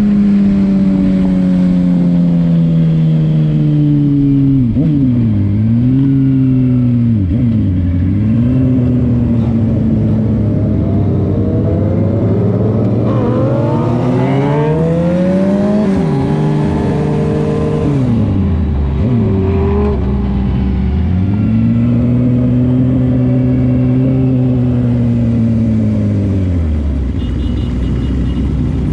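A single close vehicle engine under way, its pitch dropping and climbing again and again as it slows, accelerates and shifts gears, with a long rise in the middle and a steady stretch near the end before it falls away.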